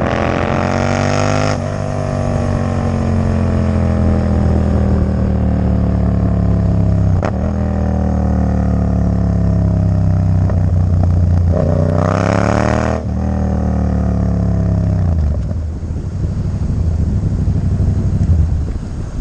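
Yamaha MT-07's 689 cc parallel-twin engine running loud through a Black Widow exhaust with no dB killer. It revs up and drops sharply at a gear change, then the pitch slides down for several seconds. About twelve seconds in it revs hard again and cuts off sharply, then falls away to a rougher, quieter running.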